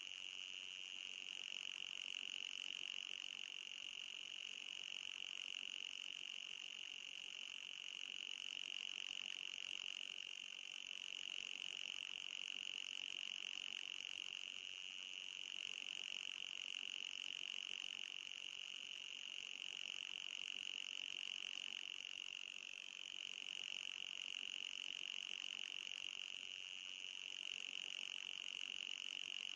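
Anti-mosquito repeller sound effect: a continuous high-pitched electronic whine with a fainter, higher whine above it, wavering slightly in pitch.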